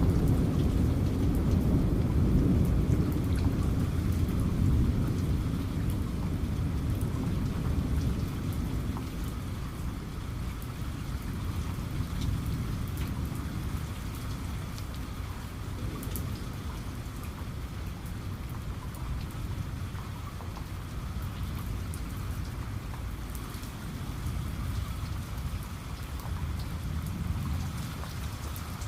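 Steady rain with the patter of individual drops, under a low rumble of thunder that dies away over the first ten seconds or so.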